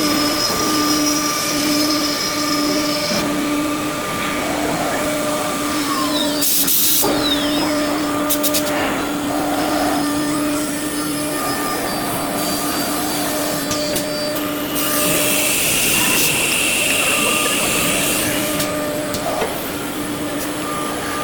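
5-axis CNC machine running: a steady motor whine with several overtones, broken by loud hissing bursts about seven seconds in and again from about fifteen to eighteen seconds.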